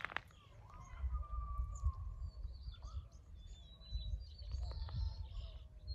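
Small birds chirping and calling in short whistled notes, over a low rumbling noise on the microphone.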